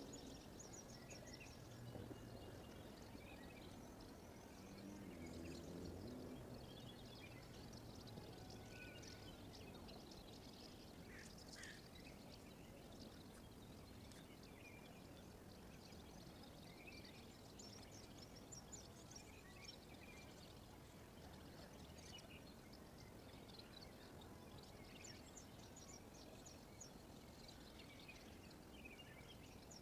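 Faint chirps and calls of several small birds over a low, steady background hiss, with a low rumble during the first several seconds.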